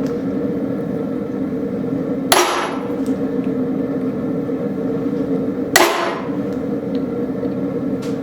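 Hammer striking a steel punch into a forged railroad spike, two sharp metallic blows about three and a half seconds apart, each with a short ring. A steady hum runs underneath.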